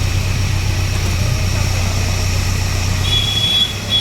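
Heavy construction machine's engine running steadily with a low hum. A short high-pitched tone sounds about three seconds in and again briefly near the end, and the engine sound dips after the first tone.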